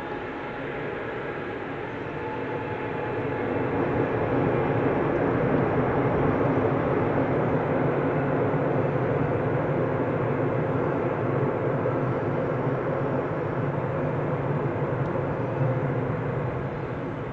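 Jet engines of a Boeing 787-8 airliner during its landing, a steady rushing roar that swells about three seconds in, holds loud, and eases off near the end.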